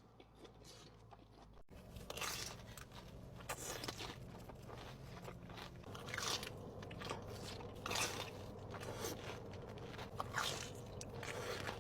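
Close-miked eating of crisp food: repeated sharp crunches as someone bites and chews, quieter in the first couple of seconds, then a run of loud bites.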